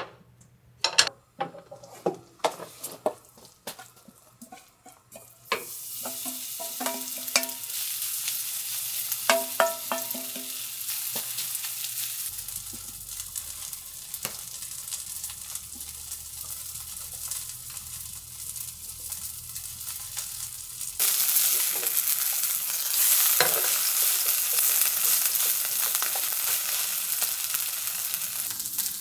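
Several sharp clinks and taps of utensils on a pan, a few of them ringing briefly, then food sizzling steadily in hot oil from about five seconds in. The sizzle grows suddenly louder about three quarters of the way through.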